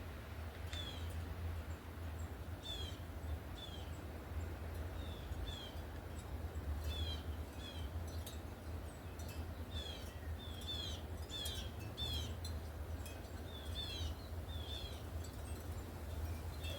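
Small birds giving short, repeated chirps, coming thick and fast through the middle, over a steady low rumble.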